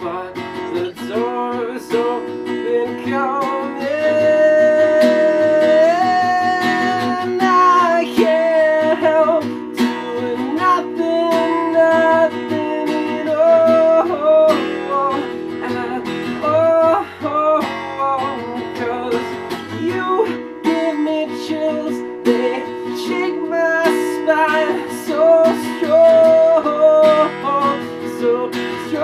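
Acoustic guitar strummed steadily under a singing voice, the sung line sliding between notes.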